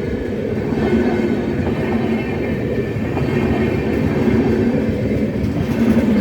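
Passenger train of LHB coaches running past: a steady, even rumble of wheels on rail.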